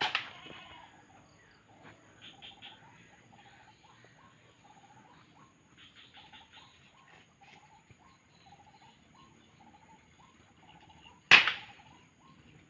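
Two sharp gunshots, one right at the start and a louder one about eleven seconds later. Faint, repeated bird chirping runs between them.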